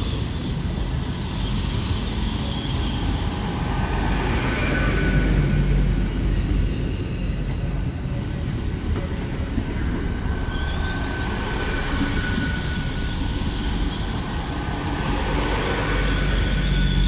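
A train running along the track: a steady low rumble of wheels on rail, with thin high-pitched wheel squeal that comes and goes.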